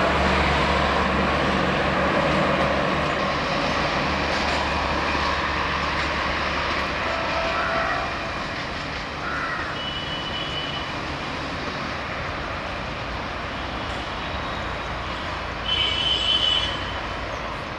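Express train's coaches rolling away over the rails, a steady rumble of wheels on track that slowly fades. A few short high-pitched sounds come through, the loudest near the end.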